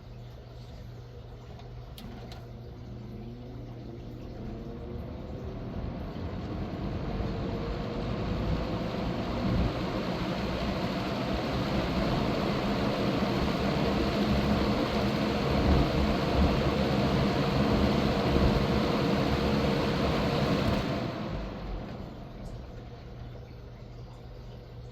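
Vintage Galaxy 20-inch box fan with a plastic 2.2 A motor, switched on with a click about 2 s in. Its motor hum and blade rush rise in pitch and level over several seconds as it spins up, then run steadily. About 21 s in the fan is switched off and the airy rush falls away quickly as it winds down.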